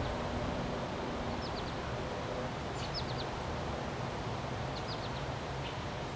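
Steady wind noise, with leaves rustling, and a few short bursts of high bird chirps scattered through it.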